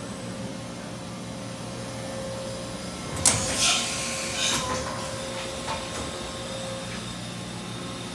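Matsuura H Plus 300 horizontal machining center running with a steady hum. About three seconds in there is a sharp mechanical clunk followed by short hissing bursts, another burst about a second later, and a faint click after that.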